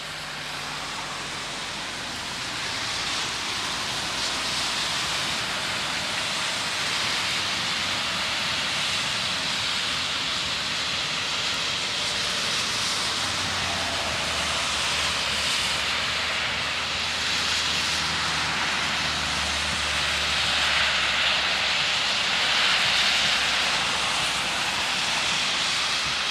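Passenger train pulling out of a station, its wheels running on the rails as a steady rushing noise that builds slowly, with a low hum through the middle stretch.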